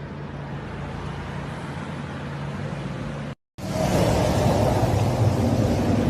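Steady vehicle and road noise with a low hum. It cuts out completely for a moment about three and a half seconds in, then comes back louder and rougher.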